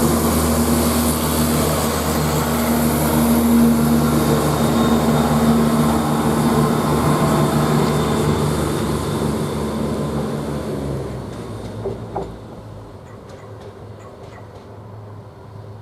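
Class 170 Turbostar diesel multiple unit pulling away, its underfloor diesel engines running hard with a steady drone. About eleven seconds in the sound fades away as the train leaves.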